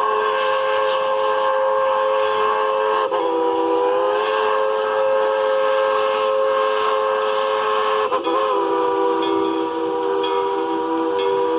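Narrow-gauge steam locomotive's multi-chime whistle blowing one long, loud chord. It wavers briefly in pitch about three seconds in and again about eight seconds in.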